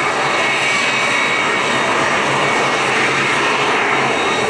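Aircraft engine noise, a steady, loud rush that holds level throughout.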